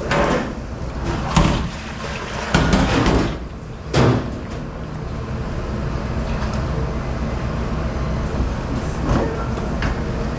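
Dish-pit clatter: a few knocks and a sliding scrape in the first four seconds, then a steady low machine hum with the odd faint knock.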